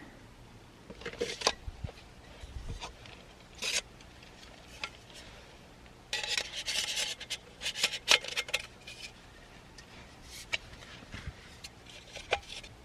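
Close handling of small objects: irregular rubbing and scraping with scattered sharp clicks, busiest in the middle.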